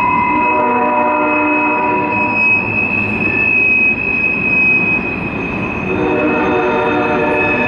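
Freight train cars rolling over the rails at a crossing, a steady rumble of wheels with a steady high-pitched squeal throughout. A set of lower tones sounds together for a couple of seconds near the start and again near the end.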